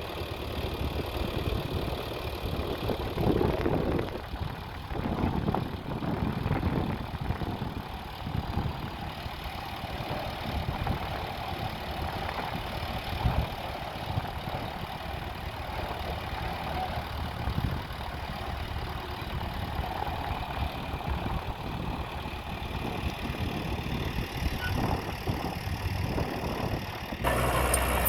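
Diesel engine of heavy earthmoving machinery running steadily, with irregular clatter. The sound changes abruptly near the end.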